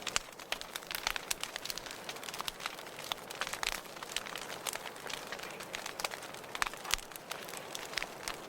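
Wood fire crackling in a fireplace: irregular sharp pops and snaps over a steady soft hiss of burning.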